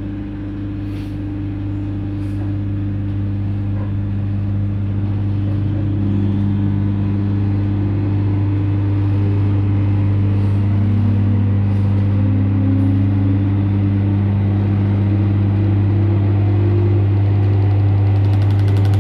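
Running sound of a JR 721 series electric train heard from on board: a steady low hum that grows slowly louder, with a few rising motor tones in the middle as the train picks up speed.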